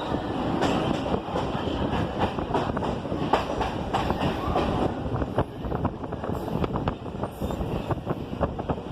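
Mumbai suburban local train running, heard from on board: a steady rumble with irregular clicks and clacks of the wheels over the track.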